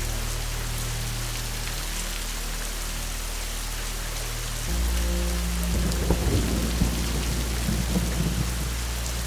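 Steady rain falling, with a roll of thunder building about halfway through, its low rumble and crackle swelling. A low, steady drone sits underneath.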